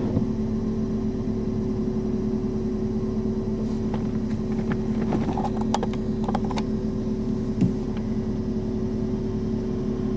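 Steady hum of an idling vehicle engine, unchanging in pitch, with a few faint clicks in the middle.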